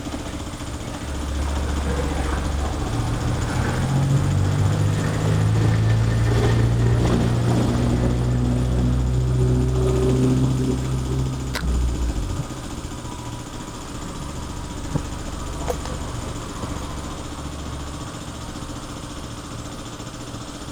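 A motor vehicle engine running nearby, with a steady low pitch. It gets louder from about a second in, cuts off about twelve seconds in, and leaves a quieter low hum.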